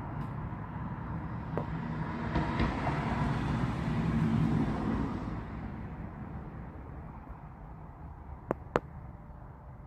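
A vehicle passing by: a rumble and rush that builds to its loudest mid-way and then fades away. Two sharp clicks near the end.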